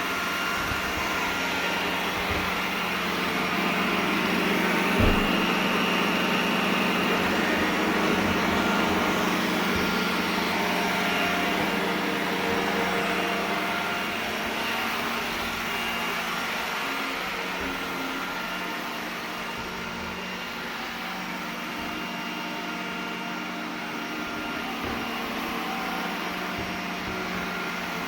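iRobot Roomba 980 robot vacuum running, a steady whirring of its suction motor and brushes that swells louder for several seconds and then eases off, with a single knock about five seconds in.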